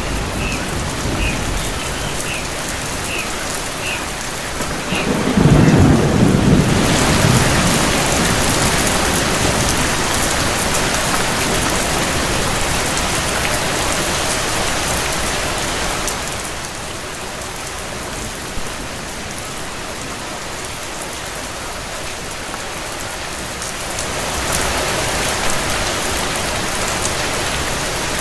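Steady rain with a low thunder rumble about five seconds in. The rain grows heavier after the thunder, eases off for several seconds midway, then picks up again near the end. A few faint high chirps sound in the first seconds.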